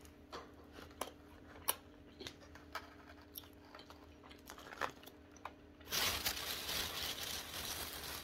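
Faint crinkling of a food wrapper and chewing as a gyro is bitten into and eaten, in scattered small clicks and crackles. About six seconds in, a steady hiss starts.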